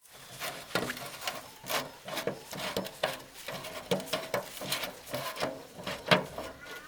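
Irregular scraping and rubbing strokes, about three a second, from hand work on a scrapped diesel engine's parts.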